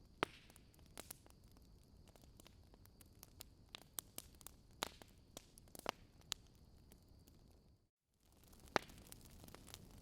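Wood fire crackling with sharp, irregular pops over a faint steady hiss. The sound cuts out completely for a moment about eight seconds in, then the crackling resumes.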